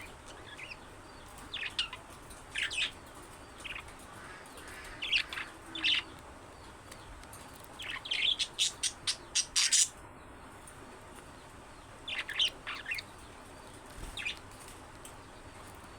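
Budgerigars chirping in short, high calls that come in scattered groups, with a quick run of loud chirps about eight seconds in.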